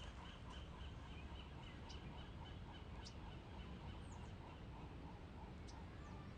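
Faint outdoor ambience: a steady low rumble with a bird calling in quick, evenly repeated honking notes, and a few brief high chirps.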